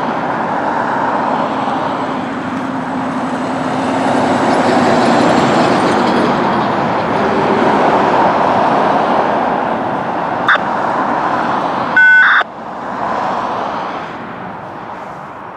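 Loud, steady rush of vehicle noise that swells and then fades toward the end. A short beep of several stacked tones sounds about twelve seconds in.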